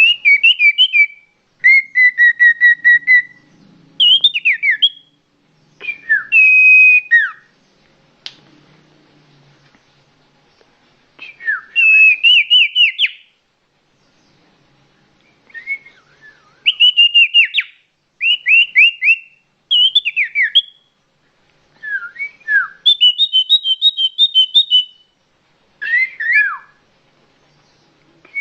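Common iora (cipoh) calls played as a bird-luring recording: loud, clear whistled phrases of quick downslurred notes and short trills, repeated in bursts with short pauses between them.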